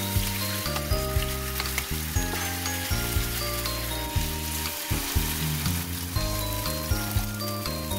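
Oil sizzling in a nonstick frying pan as spoonfuls of minced chicken-breast patty mixture fry, with new spoonfuls being dropped in. Background music with a steady beat plays along.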